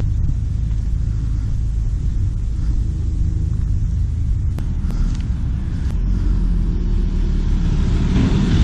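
Steady low rumble of a motor vehicle, with a car approaching and growing louder near the end.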